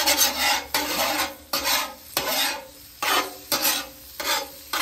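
Steel spatula scraping across a flat-top steel griddle in repeated strokes, a little under two a second, pushing ribeye fat trimmings around as they sizzle and render.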